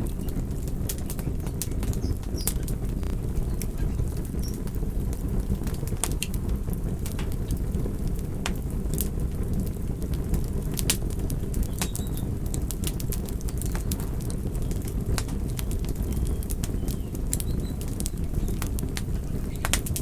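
Wood campfire crackling: frequent irregular sharp pops and snaps over a steady low rumble.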